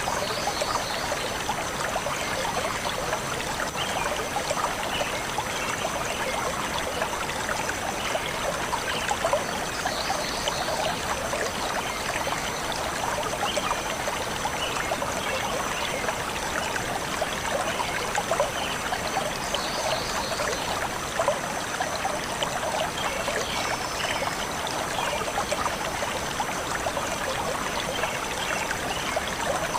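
Shallow stream flowing and trickling steadily over stones, with a few short bird chirps heard now and then above the water.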